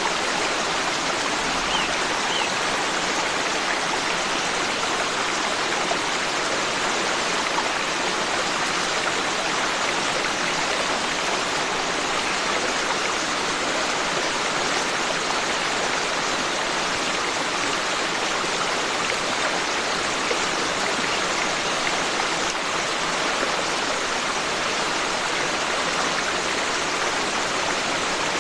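Forest stream with water rushing and splashing steadily over rocks.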